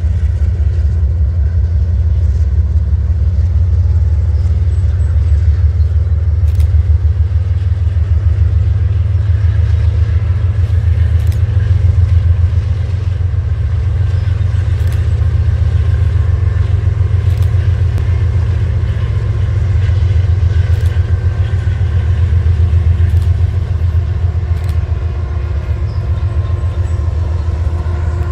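Diesel locomotives running, a loud steady low rumble with a fast pulsing throb and a few faint clicks, without change in build-up or fall-off.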